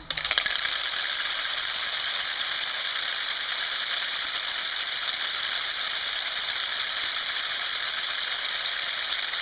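Wooden Easter clappers (Osterklappern), hand-held boards with wooden hammers that strike both faces, being shaken together. They make a dense, continuous clatter that starts abruptly and holds an even level.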